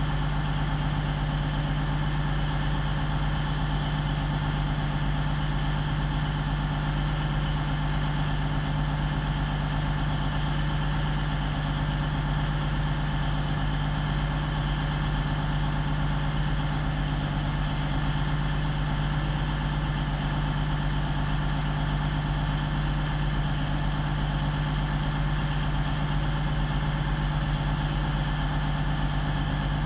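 A stationary train idling, giving a steady, unchanging mechanical hum with no change in pitch or level.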